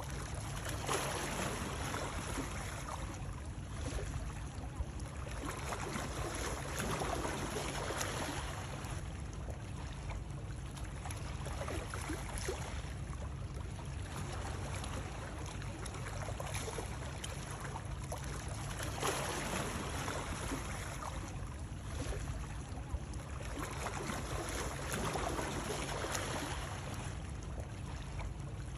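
Continuous sound of water, a steady rushing that swells and eases every few seconds, like water lapping.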